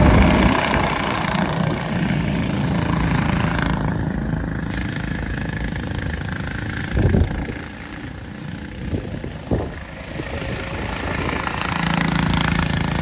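Racing go-kart engines going past the track. The engines are loud at first and fade away, then build again near the end as more karts come round. A couple of short thumps come in the middle.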